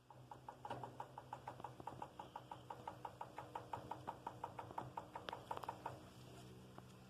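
A rapid, even series of short clicks, about seven a second, starting under a second in and stopping about a second before the end, over a faint steady hum.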